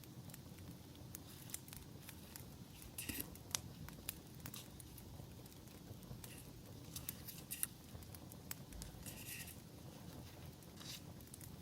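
Campfire crackling with scattered sharp pops, over a low steady rush. A few brief rustles of paper being handled come about three seconds in, again near nine seconds, and near the end.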